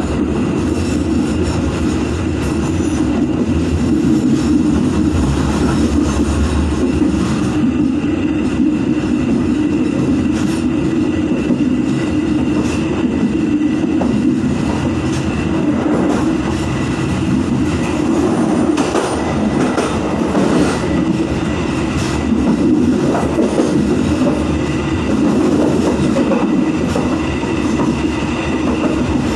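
Ballast freight train running on the rails, heard from the rear of a wagon: a steady loud rumble with a faint high steady whine and scattered clicks from the wheels on the track.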